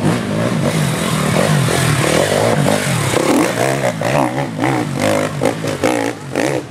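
Enduro dirt bike engine revving in quick throttle bursts, its pitch rising and falling rapidly, most busily in the second half.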